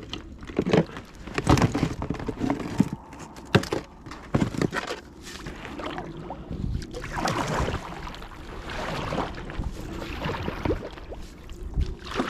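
Irregular splashes and knocks as a small inflatable raft is paddled across water.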